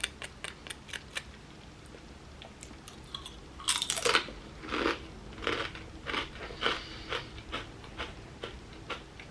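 A crispy homemade potato chip bitten with a loud crunch about four seconds in, after a few light clicks, then chewed with a crunch roughly every half second.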